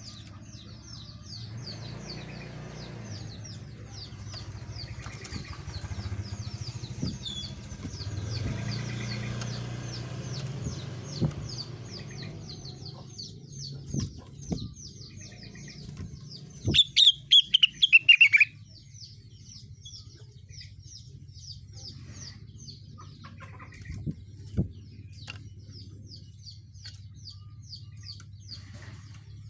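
A rengganis songbird singing: a steady run of quick, high, falling chirps, with a loud burst of about six falling notes a little past the middle. A low hum sits underneath, and a few sharp knocks stand out around 11, 14 and 24 seconds.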